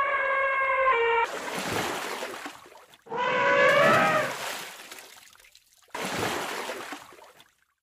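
Elephant trumpeting: one call that breaks off about a second in and a second call about three seconds in, with water splashing between the calls and near the end.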